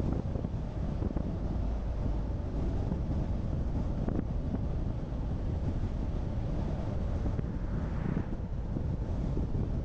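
Steady low rumble of road and wind noise from a car being driven, with a short soft hiss about eight seconds in.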